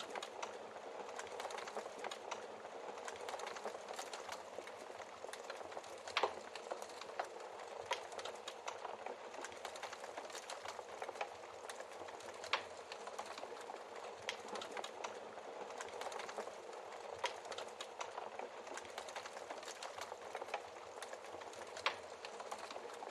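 Wood fire crackling steadily, with dense small crackles and a few louder sharp pops from the logs.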